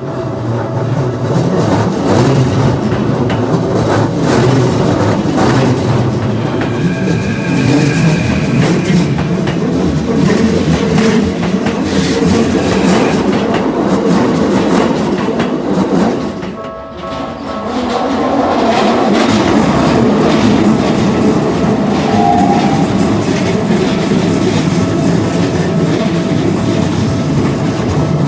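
Keikyu Line trains running over a level crossing at close range: steady wheel-and-rail running noise with a fast clatter over the rail joints. The noise dips briefly about two-thirds of the way through, then builds again as the passing goes on.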